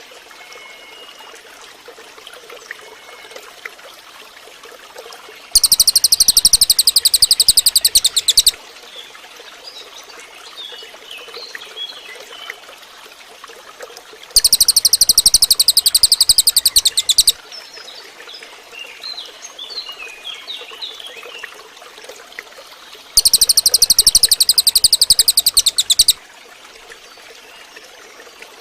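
Cililin song: three loud, very fast, high-pitched buzzing trills of about three seconds each, roughly nine seconds apart. Between them come soft scattered twittering notes over a steady background hiss like running water.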